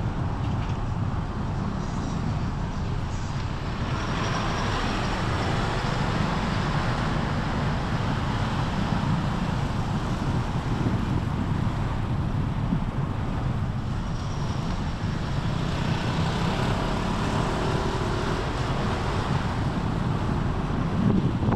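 Road traffic noise with a steady low rumble. Passing vehicles swell up about four seconds in and again around sixteen seconds.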